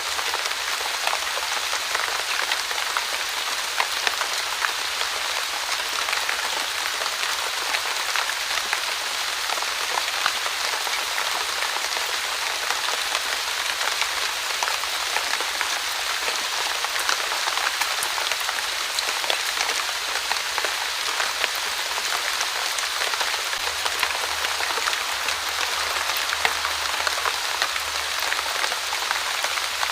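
Light rain falling steadily: an even hiss of fine drops with many small individual drop ticks.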